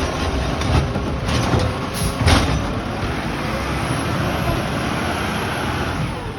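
Garbage truck running, with a few sharp knocks or clanks in the first half, then a steady heavy rumble.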